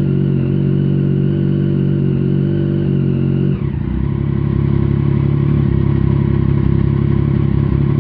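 Triumph Daytona 675R's three-cylinder engine running steadily at raised revs, then dropping to a lower idle about three and a half seconds in. This is its first run after a top-end rebuild with a new cylinder head.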